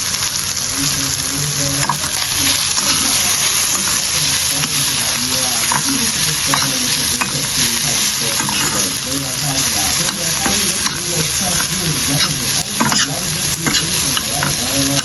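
Food frying and sizzling in a cooking pot while it is stirred, a steady sizzle with scattered clicks of the spoon against the pot.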